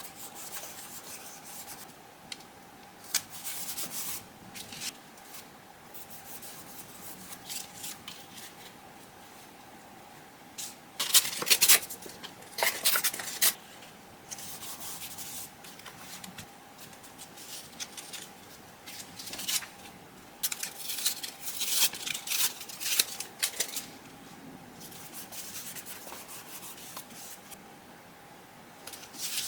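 Paper being handled and rubbed down by hand while assembling a collage: intermittent rustling and scratchy rubbing, loudest in a few clusters about 11 and 20 seconds in.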